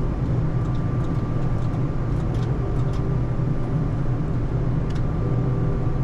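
Boeing 787 in flight on approach: a steady, even low rumble of engine and airflow noise with a thin steady whine above it.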